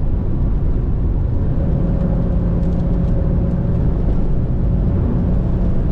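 Pontiac Firebird's V6 engine and tyres on a wet road, a steady loud running noise while driving, with an even drone setting in about two seconds in.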